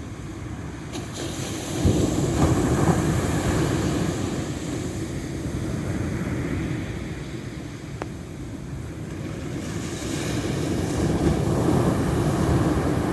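Ocean waves surging in, swelling sharply about two seconds in and again near the end.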